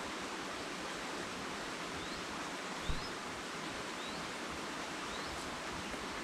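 Steady rushing forest ambience, with a few faint short rising bird chirps and a soft low thump about three seconds in.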